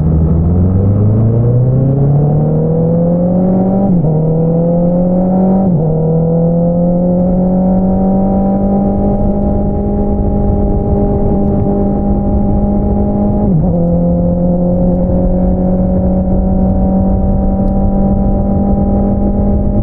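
Honda CBR650R inline-four through an Akrapovič single-outlet exhaust, accelerating with its note climbing, then upshifting twice in quick succession about 4 and 6 seconds in. It then holds a steady cruising note, with one more upshift about two-thirds of the way through.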